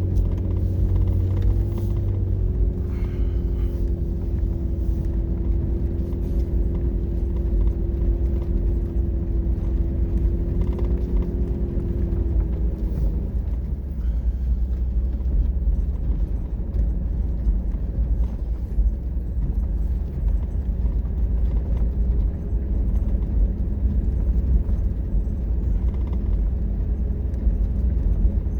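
A vehicle engine running steadily with a low rumble; its note fades about 13 seconds in and comes back around 21 seconds.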